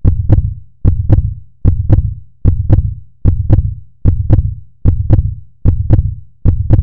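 A loud, steady beat of paired deep thumps, like a heartbeat's lub-dub, about one pair every 0.8 seconds.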